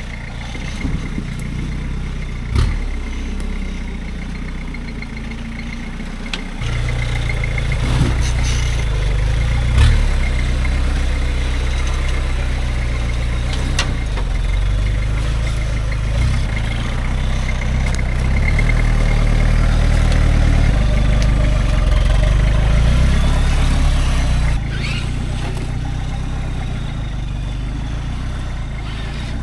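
Turbo-diesel 4x4 engine running at low revs while the truck crawls off-road. It gets louder about six seconds in as load comes on, over a faint steady high whine and a few knocks.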